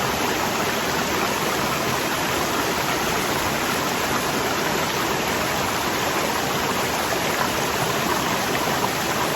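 Waterfall rushing: a steady, even hiss of falling water that never changes over the seconds.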